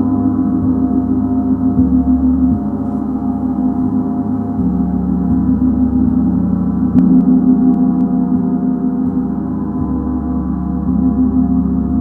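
Gong played continuously, a sustained wash of many overlapping ringing tones, its deep tones swelling and shifting every second or two as it is worked. A light strike sounds about seven seconds in.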